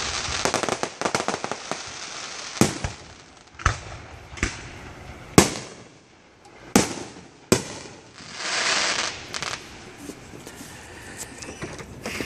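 Fireworks going off: a fast crackle in the first couple of seconds, then six sharp bangs roughly a second apart, and a rushing hiss about eight seconds in, with faint crackling after it.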